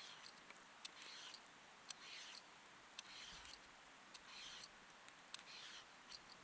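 Faint, rhythmic cutting, about one stroke a second: each stroke a short scrape ending in a sharp click.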